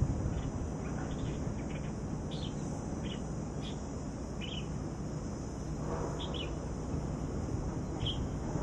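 Small birds chirping in short, scattered calls over a steady high-pitched hiss and a low outdoor rumble.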